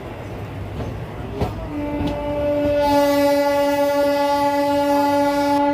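Train horn sounding one long blast of about four seconds over the rumble of a moving train, a second tone joining about a second after it starts to make a chord; it cuts off sharply near the end.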